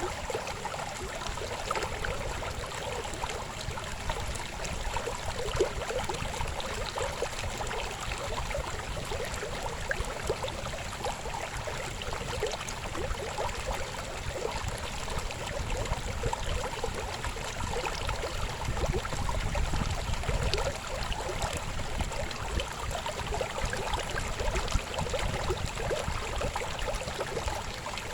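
A river babbling steadily, with a rush of flowing water full of small gurgles and splashes. A deeper rumble swells briefly about two-thirds of the way through.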